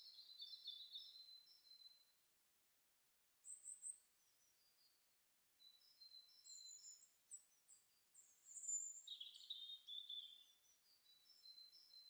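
Songbirds singing faintly: quick series of short, high chirps and trills, with pauses a couple of seconds in and a louder burst of song about two-thirds of the way through.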